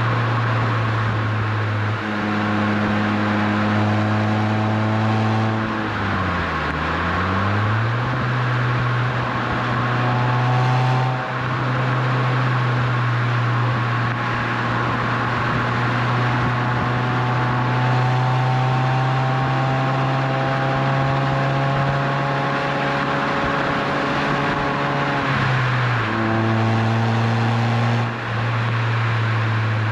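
Renault Twingo RS Gordini's four-cylinder engine running through an Inoxcar 80mm stainless steel aftermarket exhaust at an easy, steady pace. Its drone dips and climbs back twice, around six seconds in and near the end, as gears are changed.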